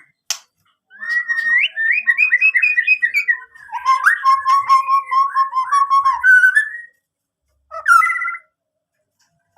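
White-rumped shama (murai batu) in full song: a long run of varied, fluting whistled phrases lasting about six seconds, then one short phrase near the end.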